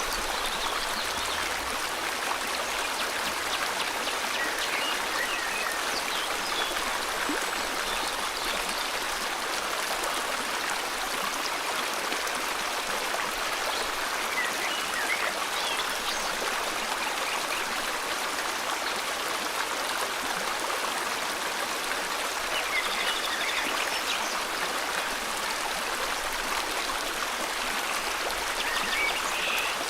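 River water flowing steadily, with occasional short bird chirps above it.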